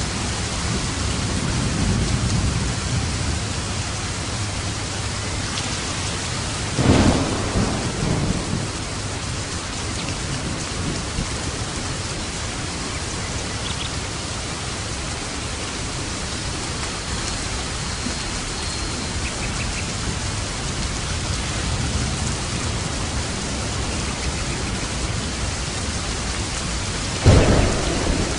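Steady heavy rain with thunder: a low rumble early on, then two sharp claps of thunder, one about a quarter of the way in and one near the end, each trailing off in a rumble.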